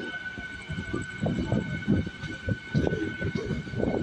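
MEMU electric train running, heard from inside a coach: irregular low knocking and rumbling of the wheels and coach body, under a steady high-pitched whine.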